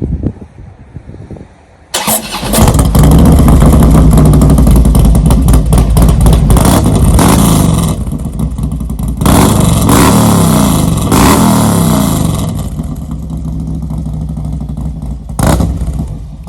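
Harley-Davidson Street Glide Twin Cam V-twin with S&S 585 cams and a D&D Fat Cat 2-into-1 exhaust starting about two seconds in and running loud. The throttle is blipped several times in the middle, then it settles to a lumpy idle with one more short rev near the end.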